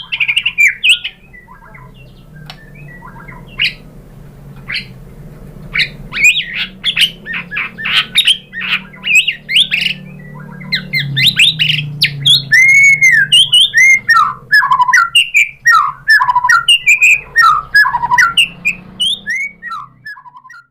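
White-rumped shama singing a rapid, varied song of whistles, chirps and harsher notes, sparse at first and turning dense and loud from about six seconds in, running through its repertoire. A low steady hum sits underneath.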